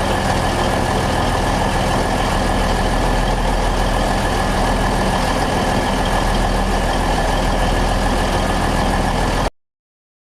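Twin-engine diesel-hydraulic locomotive running steadily, with an even low engine hum and a faint high whine; the sound cuts off abruptly near the end.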